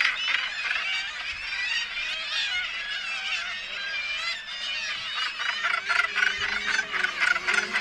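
Dense chorus of a gannet colony: many birds giving harsh calls over one another. Soft music with long held notes comes in about five and a half seconds in.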